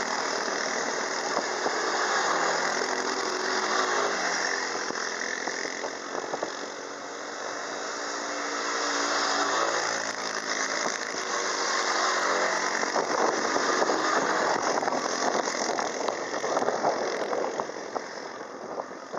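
Quad bike engine running on the move, its pitch rising and falling with the throttle, over a steady rushing noise.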